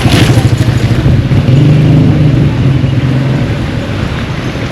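A motor vehicle's engine running close by, a loud low pulsing hum that eases off after about three and a half seconds as it moves away.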